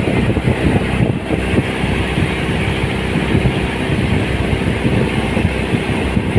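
Motorboat engine running steadily under way, with a constant rushing hiss over it.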